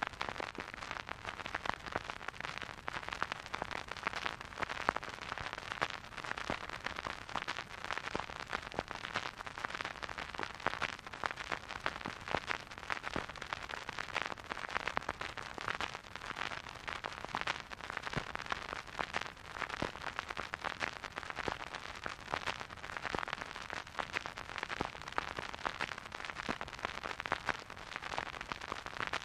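Vinyl record surface noise from a spinning turntable, with no music: a steady soft hiss dotted with frequent small crackles and pops.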